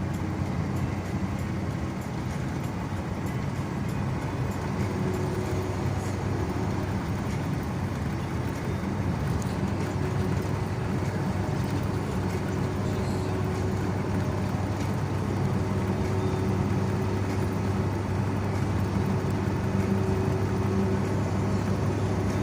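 Car driving along a road: a steady low drone of engine and tyre noise, growing a little louder in the second half.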